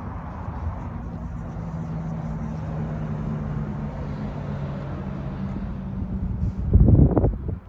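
A motor vehicle's engine running steadily, a low even drone. Near the end comes a short burst of much louder low rumbling.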